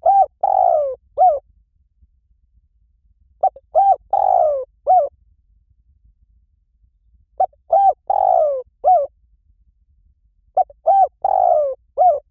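Spotted dove cooing: the same phrase of two short coos, a long falling coo and a short final coo, repeated about every three and a half seconds.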